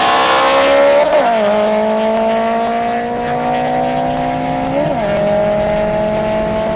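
Honda VTEC car engine pulling hard at full throttle in a roll race from 20, its pitch climbing steadily in each gear, with two quick upshifts, about a second in and about five seconds in.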